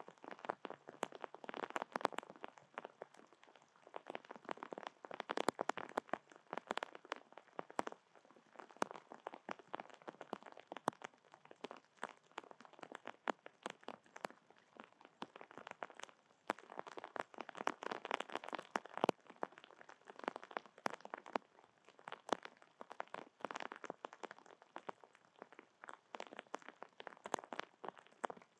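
Close-up crunching of seeds being cracked and chewed at a feeder, in uneven bouts of quick crackling clicks a few seconds long.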